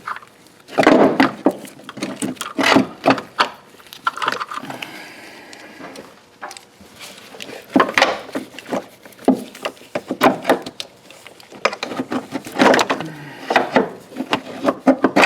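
Irregular metal clunks, knocks and scraping as a front engine mount and its through bolt are worked into position on the car's frame, coming in clusters every second or two.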